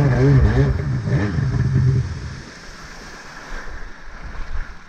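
Stand-up jet ski engine running with its revs swinging up and down about twice a second. About two seconds in it drops away, leaving wind and water splashing.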